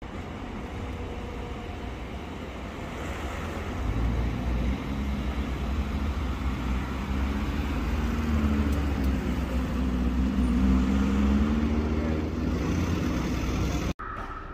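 Lamborghini Urus twin-turbo V8 driving slowly past and away, a low engine rumble that swells as the car passes, its pitch rising and falling a little, then cut off abruptly near the end.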